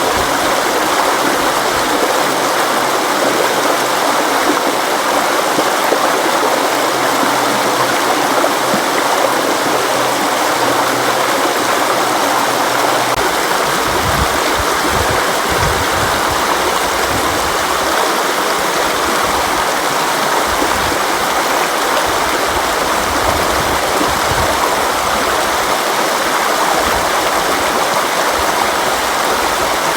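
River water flowing and rushing steadily, with a deeper, uneven rumble joining the low end about 13 seconds in.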